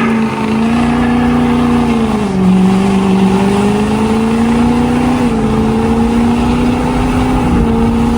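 A car's engine running while the vehicle drives; its note drops about two seconds in, then climbs back over the next few seconds.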